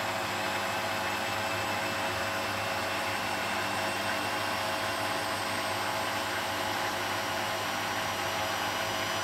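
Beko WTB740E1W front-loading washing machine on its spin cycle: the drum spinning steadily, a rushing noise with a held motor whine that does not change.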